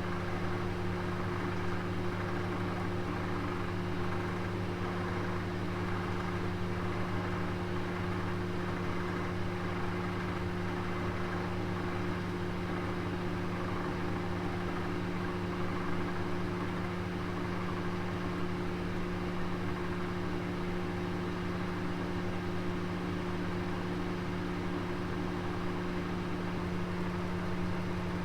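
Oven running with a steady low hum and an even whirring noise, unchanging throughout.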